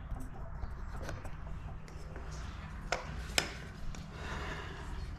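A few sharp clicks and knocks of metal engine parts being handled while a two-stroke dirt bike engine is taken apart, with a brief scraping near the end, over a low steady rumble.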